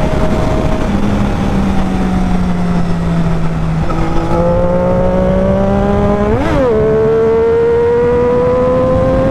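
Triumph Daytona 675R inline-three engine under way: the pitch eases down for a few seconds, then climbs as it accelerates, with one quick upshift about two-thirds of the way through before it climbs again. Wind rush runs underneath.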